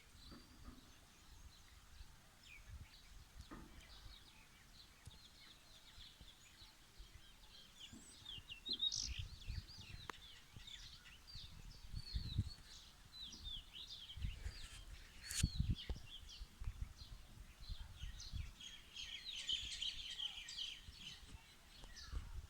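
Many birds chirping, a chorus of short overlapping chirps and tweets that grows busier about a third of the way in, with occasional low rumbles underneath.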